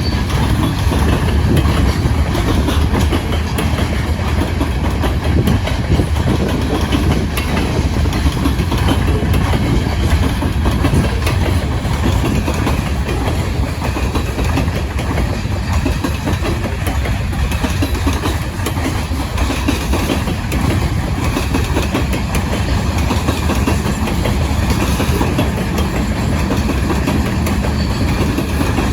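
A loaded grain train rolling past at steady speed: a continuous heavy rumble of freight cars, with a rapid, irregular clatter of steel wheels on the rails.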